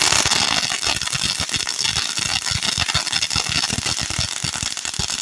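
Firework crackling: a dense, rapid string of small pops over a steady hiss.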